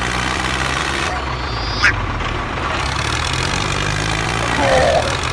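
An engine idling steadily, with a short rising squeak about two seconds in.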